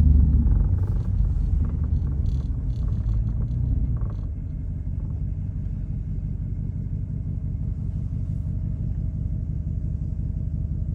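Jeep Trackhawk's 6.2-litre V8, running with its supercharger removed, easing off: the engine sound fades over the first four seconds, then settles into a steady low drone.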